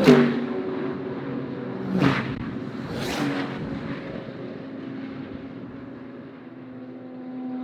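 GT3 race car's naturally aspirated V8 at full pace, with sharp bursts of engine note at the start, about two seconds in and about three seconds in, then the sound fading as the car pulls away.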